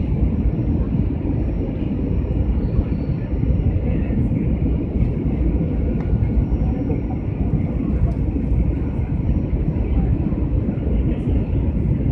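Steady low rumble of jet engines and rushing air heard inside an airliner's passenger cabin during landing.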